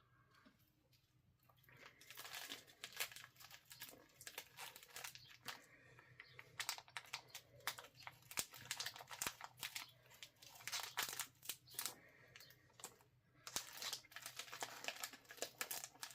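A crinkly snack wrapper being handled and torn open, with irregular crackling and rustling that starts about two seconds in.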